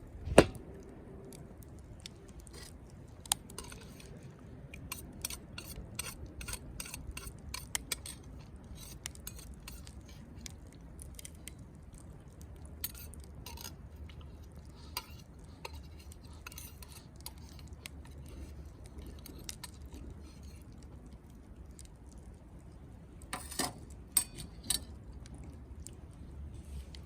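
Wood campfire crackling, with irregular sharp pops and snaps scattered throughout and a louder knock just after the start.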